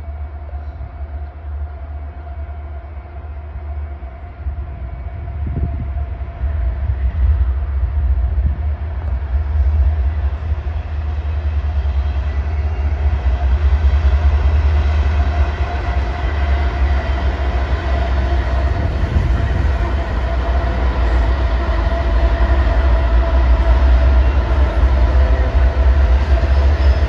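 Diesel locomotives of a passing train running with a steady drone and a heavy low rumble. The sound builds as they draw near, growing louder from about five seconds in and holding level from about halfway through.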